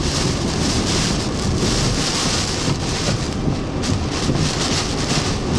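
Hurricane-force wind and heavy rain lashing a vehicle as it drives through floodwater, a dense steady rush with a deep rumble underneath, swelling and easing in gusts.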